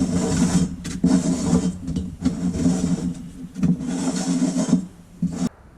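Metal parts of an old Coleman lantern scraping and rubbing as they are handled and fitted together during reassembly, in irregular bursts that stop abruptly near the end.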